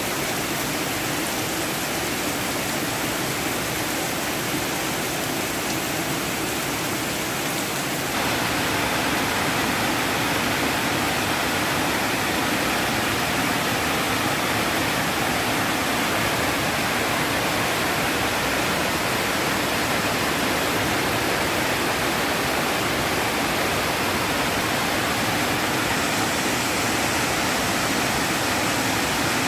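Heavy rain pouring down steadily, a dense even hiss that jumps louder abruptly about eight seconds in.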